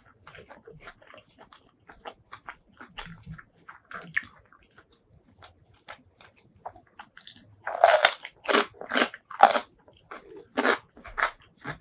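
Close-miked eating sounds: soft, wet chewing clicks, then from about eight seconds in a run of louder crunching bites, roughly two a second.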